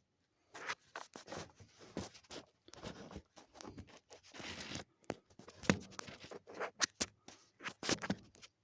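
Handling noise from the recording phone being fumbled and repositioned: irregular scrapes, rubs and sharp clicks close to the microphone.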